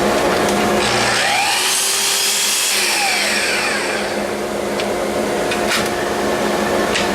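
A vacuum-type motor, likely a shop vacuum or dust extractor, runs steadily with a constant hum. Between about one and three seconds in, a power tool's whine rises and then falls away.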